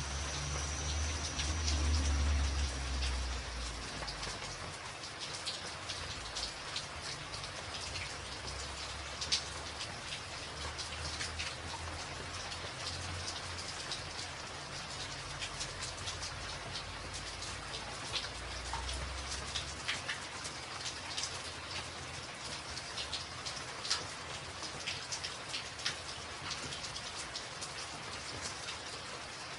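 Steady rain on a tin roof: a continuous hiss with single drops ticking sharply on the metal, and a low rumble in the first few seconds.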